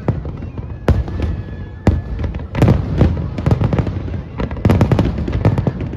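Aerial fireworks shells bursting: a string of sharp bangs at uneven intervals, coming faster toward the end, over a continuous low rumble.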